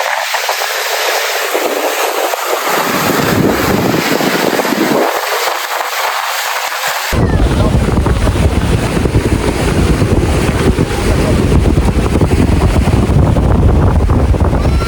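Wind buffeting the microphone in a steady loud rush, with an abrupt change about seven seconds in to a heavier, deeper rumble.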